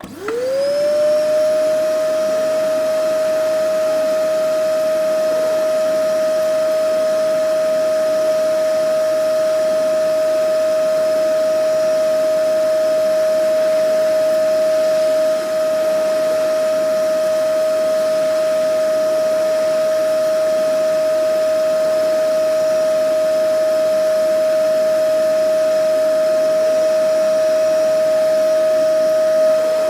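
Vacuum cleaner switched on, its motor spinning up within the first half-second to a steady whine over a rushing hiss of airflow. It then runs on unchanged.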